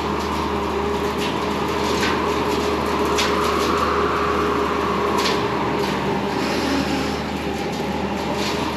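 Bobcat T595 skid steer's diesel engine running hard while it drives a sideways-mounted hydraulic brush-hog blade. Several sharp cracks from brush being cut break through the steady machine noise.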